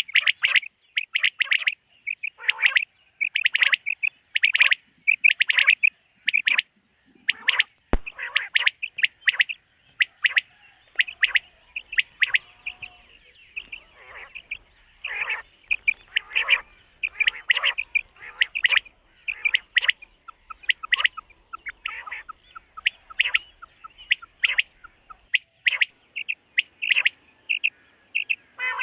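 Common quail calling over and over in short, sharp notes, a fresh call every half second to a second.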